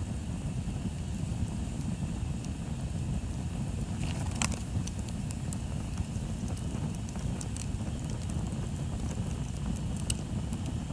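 Bonfire crackling, with scattered sharp pops and one louder pop about halfway through, over a steady low rumble of wind on the microphone.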